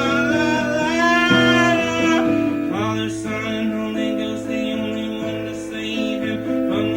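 Acoustic guitar strummed in steady chords. For about the first two seconds a long wordless sung note is held over it, wavering in pitch.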